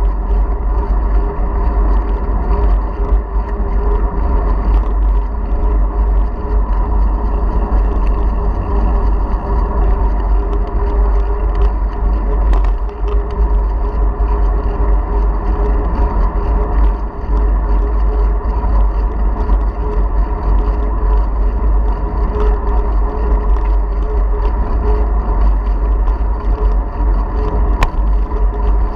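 Wind buffeting a GoPro Hero4 Silver's microphone on a moving bicycle: a steady, loud rumble with a constant hum over it.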